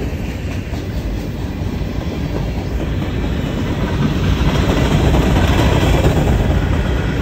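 Norfolk Southern freight cars rolling past on the rails: a continuous, loud rolling rumble with the wheels clattering, growing louder about three seconds in.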